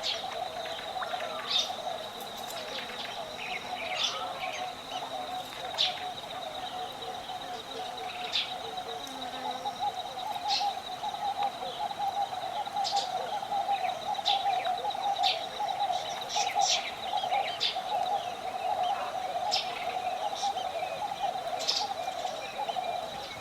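Bird ambience recording: many birds chirping and calling, scattered short calls over a steady high tone and a continuous lower warbling band.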